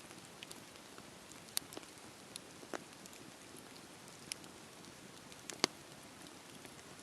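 Wood fire crackling: a faint steady hiss with scattered sharp pops, two louder snaps, one near the start and one past the middle.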